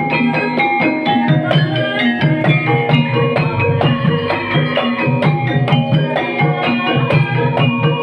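Banyumasan gamelan music accompanying ebeg: a steady run of ringing pitched notes over a regular kendang hand-drum beat.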